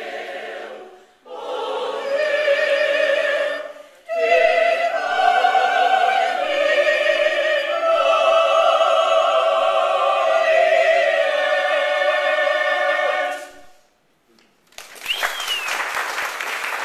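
Choral singing in long, held notes with vibrato, in three phrases that end about thirteen seconds in. After a brief silence, applause and a high cheer break out.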